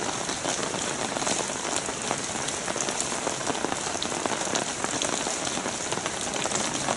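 Steady light rain, about 10 mm an hour, falling on wet asphalt, with many small drop ticks throughout.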